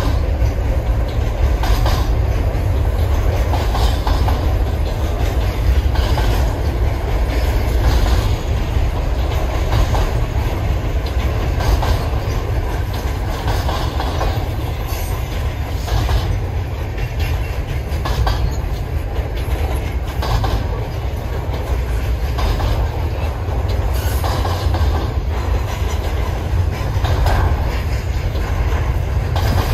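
Double-stack intermodal container train rolling past on steel wheels and rails: a steady low rumble with a clack about every two seconds as the wheel sets pass.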